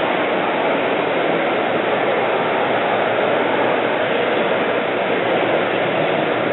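Cessna 180's Continental O-470 six-cylinder engine and propeller running steadily, heard close up as a loud, even noise.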